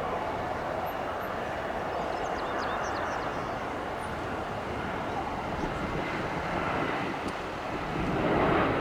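Jet airliner engines heard across the airfield, a steady rushing noise that dips briefly near the end and then swells again. A few faint high chirps come about two to three seconds in.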